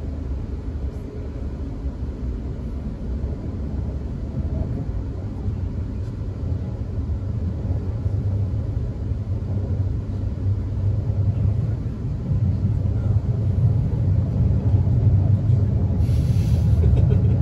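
Interior running noise of a South Western Railway Class 450 electric multiple unit on the move: a steady low rumble of wheels and running gear that grows gradually louder. A brief hiss comes near the end.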